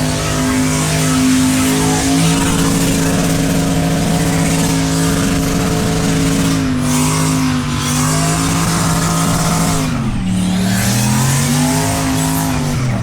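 V8 engine held at high revs during a burnout, over the hiss of spinning tyres. The revs dip briefly about seven seconds in, drop off sharply and climb again near ten seconds, then fall away at the end.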